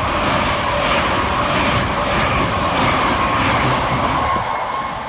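LNER Class 801 Azuma electric multiple unit passing through at speed: a loud rush of wheel and air noise with a faint regular clatter from the wheels, easing off near the end as it goes away.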